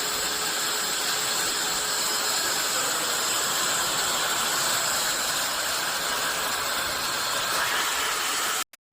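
Vacuum cleaner running steadily: an even hiss of rushing air with a high whine over it, cut off suddenly near the end.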